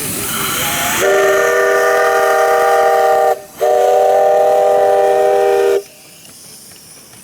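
Live steam locomotive's steam whistle blown in two long blasts with a brief break between them, after about a second of steam hissing.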